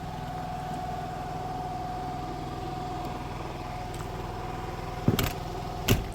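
Vehicle engine idling steadily, with two sharp knocks about five and six seconds in.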